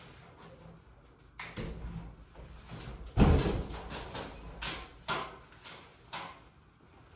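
A series of knocks and thumps, about five over several seconds. The loudest is a heavy thud a little over three seconds in.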